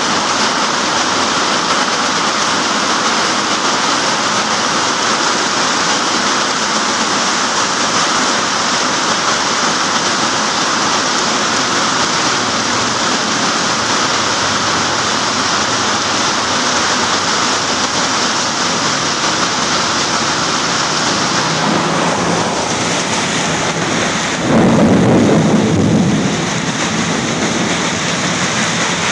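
Heavy rain pouring down in a steady, dense hiss. Near the end, a louder, lower rush rises over it for about two seconds.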